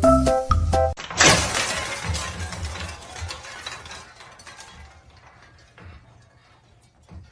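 Light plucked music breaks off and a sudden loud crash like shattering, fading away over the next few seconds with a few small clinks.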